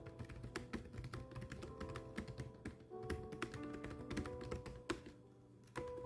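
Rapid, irregular typing keystrokes over background music with held notes. The typing and music drop away for about half a second near the end, then start again.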